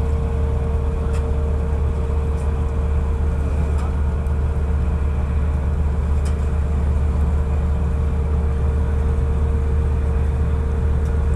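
Ship's engine machinery running steadily: a constant low drone with a steady hum tone above it and a few faint clicks.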